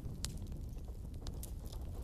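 Wood fire crackling in a fireplace: several sharp pops and snaps scattered over a low steady rumble.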